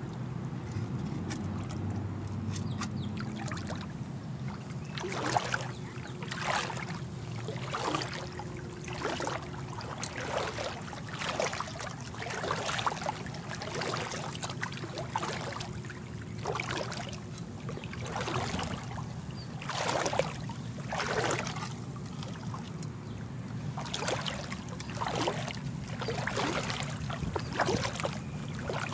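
Footsteps wading through a shallow creek: a splashing slosh about once a second, starting a few seconds in, over a low steady hiss.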